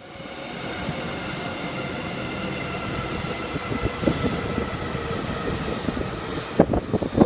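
Seven Stars in Kyushu train hauled by its DF200 diesel-electric locomotive, running with a steady engine drone and a high whine. Several sharp knocks come near the end.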